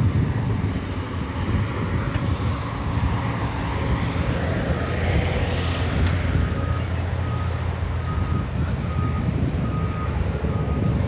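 Wind buffeting the microphone during a bike ride, a steady low rumble. From about halfway through, a short high electronic beep repeats about every two-thirds of a second.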